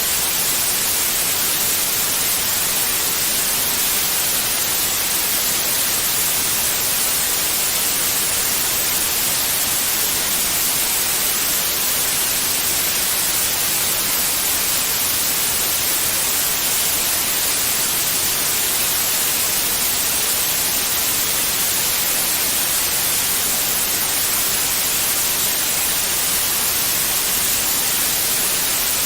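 Continuous white noise: a steady, unchanging hiss, brightest in the high treble.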